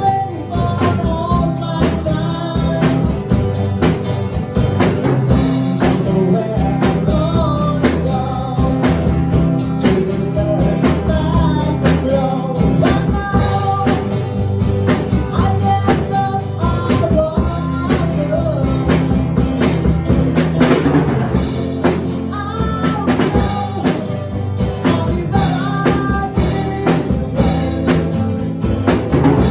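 A band playing a rock song: a singer over guitar and a drum kit keeping a steady beat.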